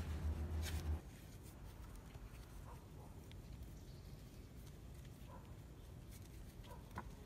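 A low hum with rustling that cuts off suddenly about a second in, then faint outdoor quiet broken by a few short bird chirps.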